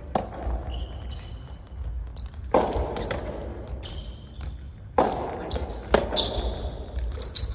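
A soft tennis rally: sharp echoing pops of rackets striking the rubber soft tennis ball and the ball bouncing, four hits a couple of seconds apart, with short high squeaks between them.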